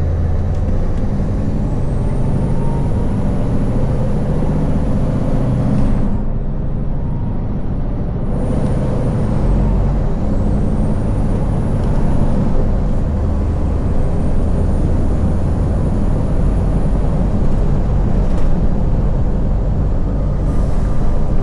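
Scania V8 truck engine heard from inside the cab while driving: a steady, deep rumble, with a short change in the sound about a third of the way in.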